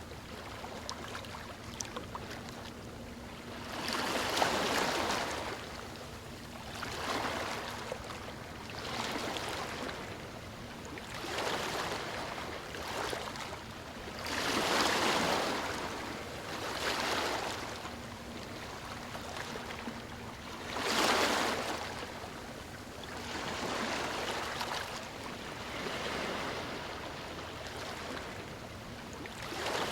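Gentle ocean waves lapping on a shore: a wash of water noise that swells and falls away every two to three seconds, some laps noticeably stronger than others.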